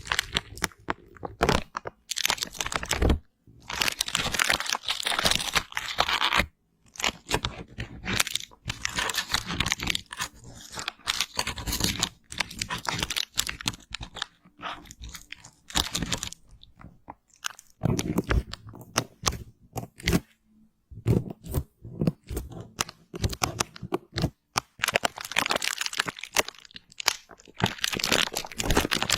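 Close-miked ASMR crunching and crackling in dense, irregular clusters, broken by short pauses.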